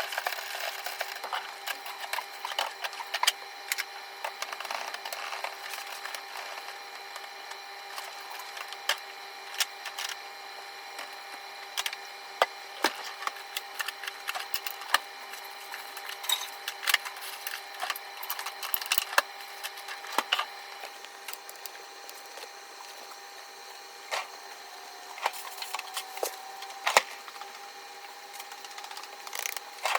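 Scattered clicks, taps and knocks of food packages and containers being handled while a refrigerator and freezer are sorted, over a steady hum.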